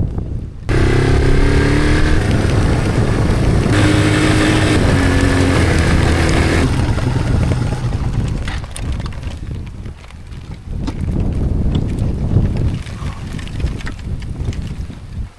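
Motorcycle engine running under way. Its note changes about four seconds in, then drops to a quieter, rougher sound after about seven seconds.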